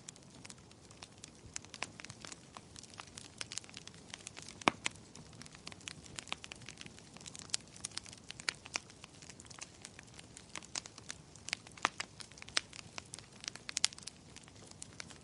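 Wood fire crackling in a fireplace: irregular sharp pops and snaps over a faint steady hiss, with one louder pop about five seconds in.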